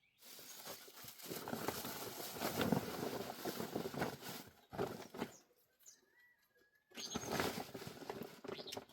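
Rustling and crunching in two long stretches, with a faint bird chirping in the quieter gap between them.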